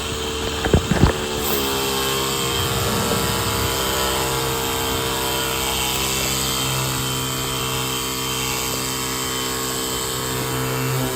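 A few knocks, then about a second and a half in a battery-powered portable pressure washer's pump motor starts and runs with a steady hum as it sprays rinse water.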